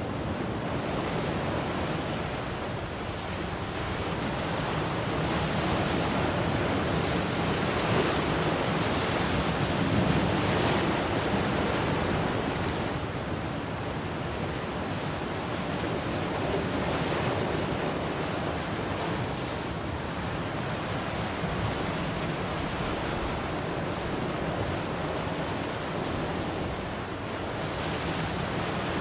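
Ocean surf: waves breaking and washing in as one continuous rush that swells and eases every several seconds.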